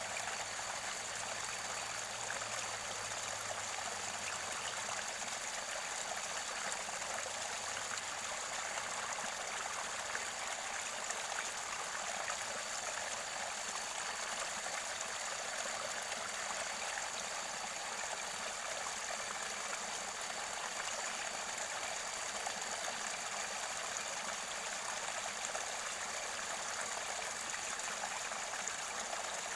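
Mountain river water gurgling and rushing steadily over its bed near the spring source.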